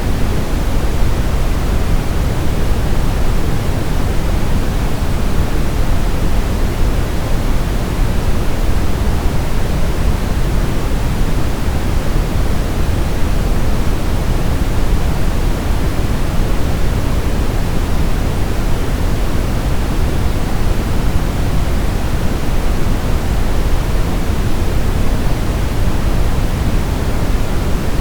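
Brown noise: a steady, even rushing hiss weighted heavily toward the deep low end, with no changes.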